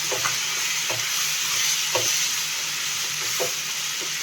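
Chicken pieces sizzling in oil in a frying pan as they are stirred, with a steady hiss and the stirring utensil scraping the pan a few times.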